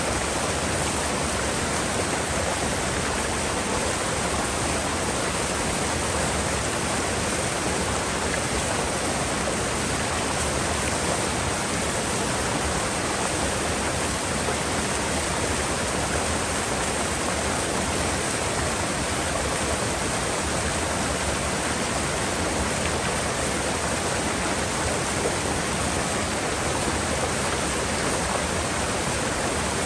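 Mountain river water rushing steadily, an even wash of noise that does not change.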